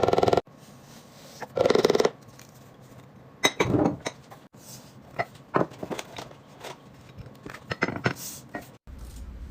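Hard containers and lids being handled and set down: a run of clinks, taps and knocks, with two louder, longer rattling noises in the first two seconds.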